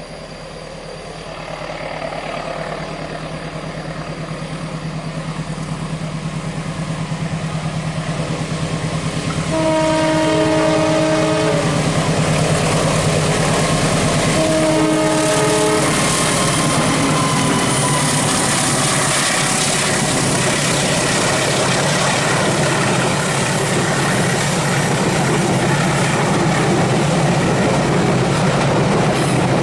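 Train approaching with its engine running, growing steadily louder, then sounding its horn twice: a blast of about two seconds and a shorter one a few seconds later. After that it passes close by with a continuous heavy rumble and clatter of wheels on rail.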